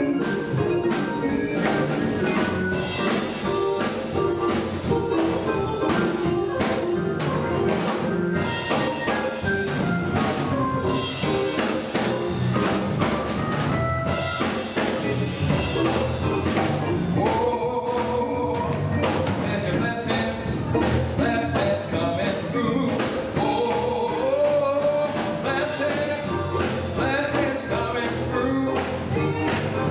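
Gospel choir singing with instrumental accompaniment and a steady percussion beat, with tambourine among the percussion.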